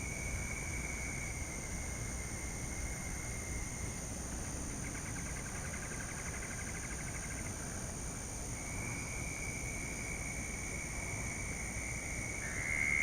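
A frog calling from the creek in long, high-pitched trills that go on for seconds at a time, with a louder trill near the end: a racket from a single frog. A steady high-pitched hum runs underneath.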